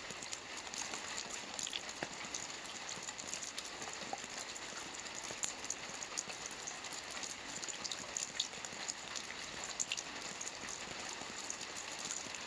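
Steady soft rain falling on a roof: an even hiss speckled with many small drop ticks.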